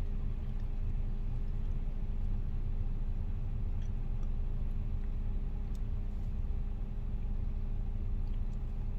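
Steady low rumble and hum of a car running, heard from inside the cabin.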